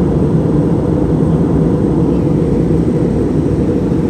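Steady, loud low rumble of a vehicle in motion, unchanging throughout.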